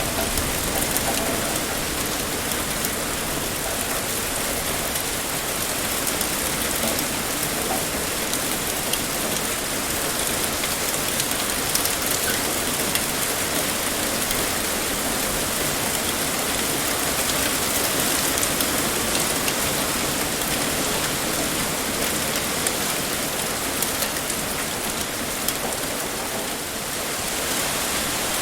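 Heavy rain pouring steadily, a dense even hiss with scattered sharper drop ticks.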